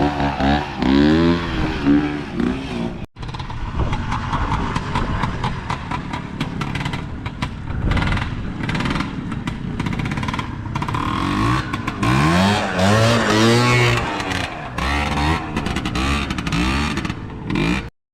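Trials motorcycle engine revving and easing off again and again as the bike climbs through a section, its pitch rising and falling with the throttle. The sound drops out briefly about three seconds in, has many sharp clicks and cracks through the middle, and cuts off abruptly near the end.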